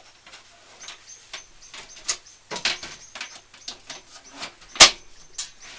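A magnetic PC-case dust filter being handled and fitted: light clicks and rubbing, then one sharp clack near the end as the magnetic filter snaps onto the case.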